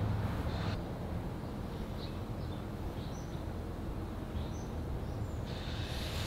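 Small birds giving a handful of short, high chirps, scattered through the middle seconds, over a steady low outdoor rumble.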